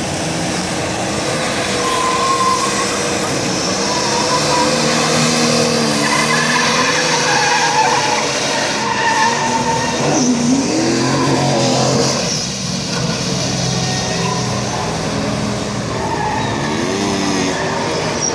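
Car engine revving up and down as a car drifts, with tires squealing in wavering, drawn-out tones.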